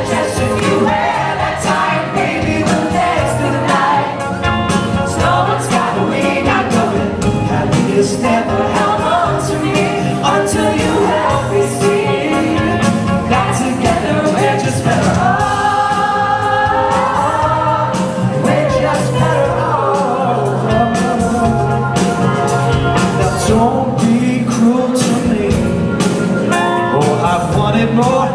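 Live pop song: singing over a band's instrumental backing with a steady beat.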